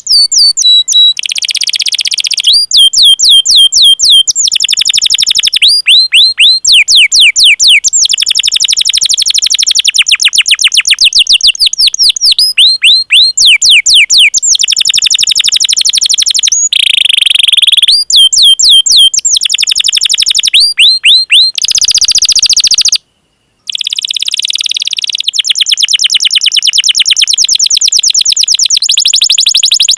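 Domestic canary singing a loud, fast song of rapidly repeated down-slurred chirps ('cuit cuit') and rolled trills, in phrases of one to three seconds each. There is a brief silent break a little past the middle.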